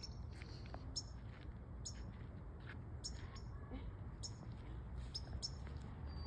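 A small bird chirping, short high calls about once a second, over a low steady hum.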